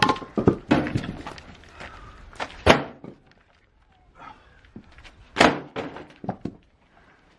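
Heavy wooden thunks of oak firewood being handled, a handful of separate knocks. The loudest comes about two and a half seconds in and another strong one at about five and a half seconds.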